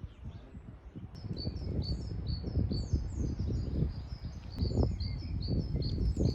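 A small bird singing a quick series of short high chirps, several a second, starting about a second in, over a low irregular rumble.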